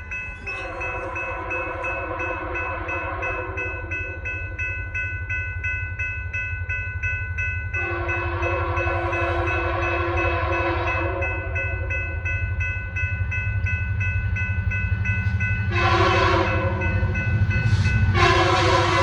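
Canadian Pacific freight locomotive approaching and sounding its horn in the grade-crossing pattern: long, long, short, long, the last blast still going at the end. A low diesel rumble grows louder as it nears, with a steady rapid ringing throughout.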